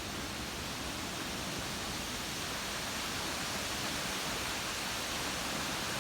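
Steady hiss of rain falling during a thunderstorm, growing slightly louder.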